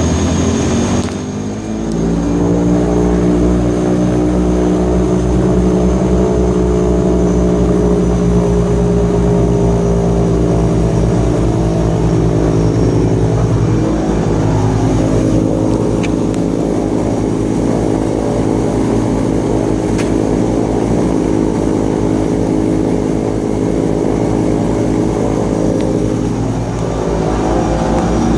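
Grumman Mallard's port engine running with its propeller turning as the props come out of their start position. The sound dips about a second in, then settles into a steady drone with a fast, even propeller beat, shifting slightly in pitch partway through.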